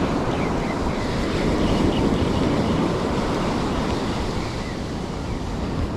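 Surf washing on the beach, with wind rumbling on the microphone.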